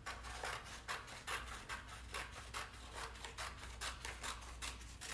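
Scissors cutting through a sheet of colored paper in a quick run of snips, about four a second, stopping near the end.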